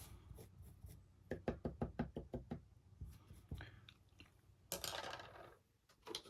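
Paint brushes and small hobby items clattering and tapping as they are rummaged through, a quick run of light knocks, followed by a short rustle about five seconds in.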